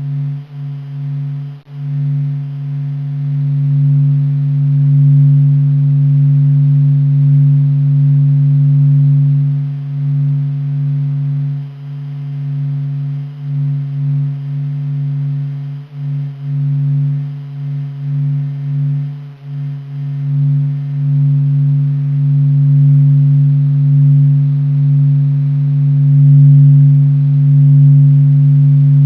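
Sonified sound of the Sun from NASA: the Sun's surface vibrations, sped up into hearing range, as a deep steady drone with a fainter tone above it. Its loudness swells and dips unevenly, with a few brief dips and flickers around the middle.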